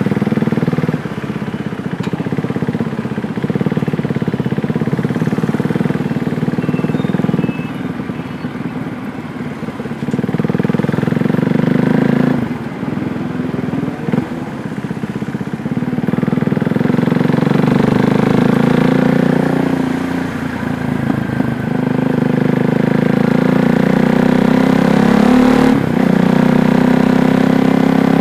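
KTM Duke 390's single-cylinder engine running under way, its revs rising and falling with the throttle, with a few brief drops in level where the revs change sharply.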